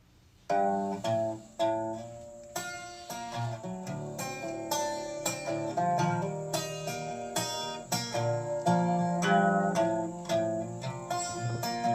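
Acoustic guitar intro, single picked notes and chords starting about half a second in, before the singing begins.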